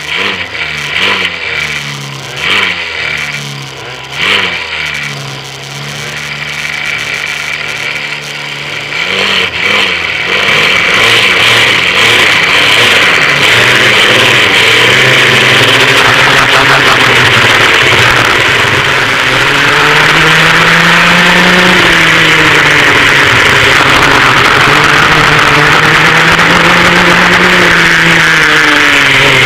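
Engines of a vintage dual rear-engine racing kart heard onboard: throttle blipped on and off at first, then opened to full throttle about nine seconds in and held at high revs, the pitch dipping and climbing back twice near the end.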